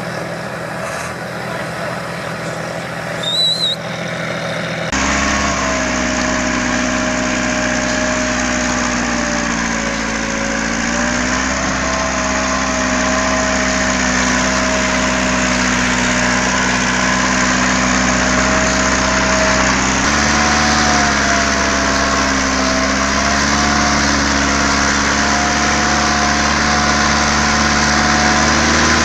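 Engine of heavy machinery running steadily, its pitch drifting slightly up and down. The sound changes abruptly about five seconds in and again around twenty seconds in. A brief high chirp comes about three seconds in.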